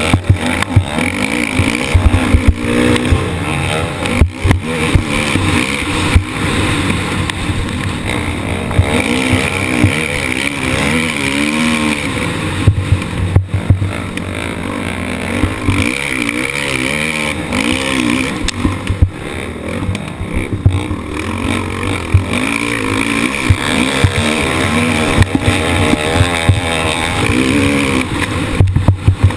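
Motocross bike engine heard close up from an onboard camera, its pitch rising and falling again and again as it revs through the gears, with wind rushing on the microphone and frequent sharp knocks.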